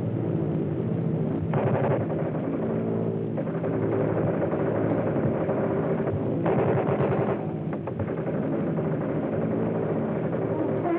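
Steady drone of a propeller aircraft engine, broken by two bursts of rapid rattling, the first about two seconds long and the second about a second.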